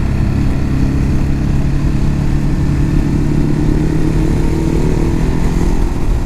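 Motorcycle engine running under way at a steady cruise, with the rush of wind and road noise. The engine note rises a little through the middle as it pulls gently.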